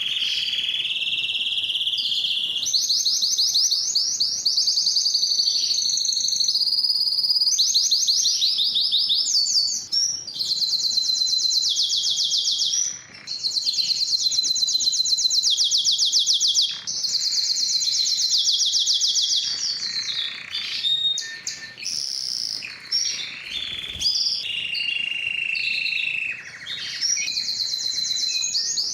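Spanish timbrado canary singing its long, continuous song of rapid rolling trills and metallic, bell-like notes, with only brief breaks between phrases.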